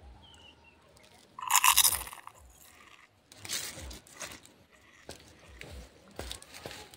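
Close-up chewing of raw sour leaves dipped in salt, with a loud burst of crunching and mouth noise about a second and a half in and a weaker one around three and a half seconds. Faint bird chirps sound in the background.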